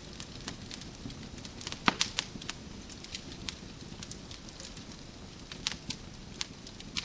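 Wood fire crackling in a fireplace: irregular sharp pops and snaps over a low steady rumble of burning logs, with a cluster of louder pops about two seconds in.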